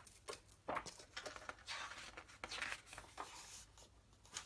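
Glossy pages of a large book being turned and handled: a run of soft paper rustles and flicks, busiest in the middle.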